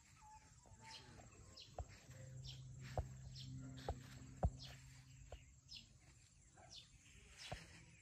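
Birds chirping, short quick calls falling in pitch that repeat throughout. A few sharp clicks, the loudest about three and four and a half seconds in, and a low steady hum for about three seconds in the middle.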